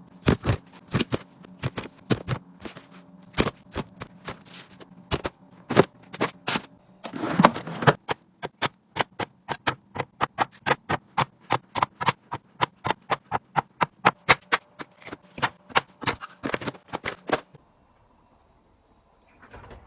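Quick, sharp clicks and taps of plastic containers and packaged groceries being handled and set down while a fridge is organized. They come in an even run of about three or four a second through the middle and stop about two seconds before the end.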